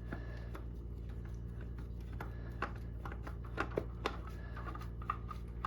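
Scattered light clicks and taps of a spin-on engine oil filter being unscrewed by hand, over a steady low hum.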